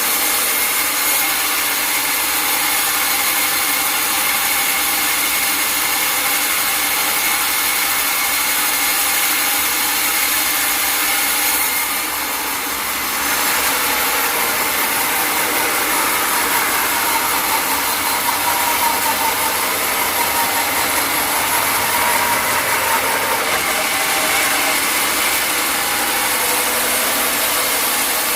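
Sawmill saw running steadily with a constant whine, its level dipping briefly about twelve seconds in.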